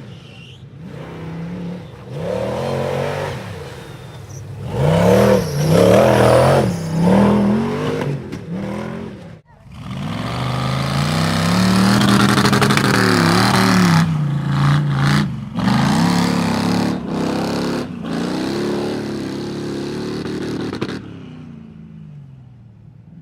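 Mud-bog truck's engine revving hard, its pitch swinging up and down again and again, with brief sudden cuts, before easing off near the end.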